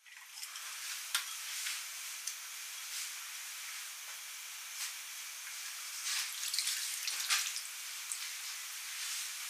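Food frying in hot oil: a steady sizzle with scattered pops and crackles, busier about six to seven seconds in.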